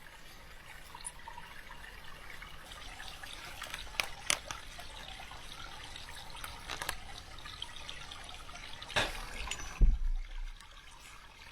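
Faint steady trickle like running water, with a few light clicks and rustles and a dull low thump near the end.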